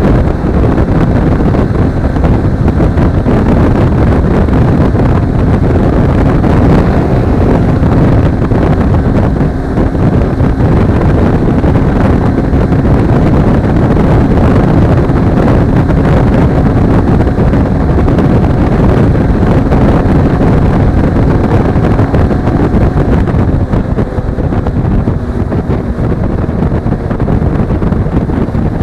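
Wind rushing over the action camera's microphone at riding speed, with a Suzuki V-Strom 250's parallel-twin engine droning steadily underneath.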